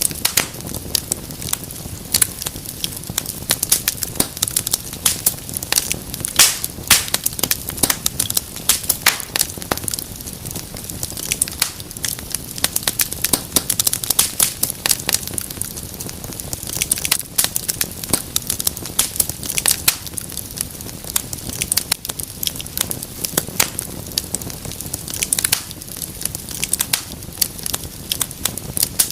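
Wood fire crackling steadily, with dense sharp pops and snaps over a low, even hiss.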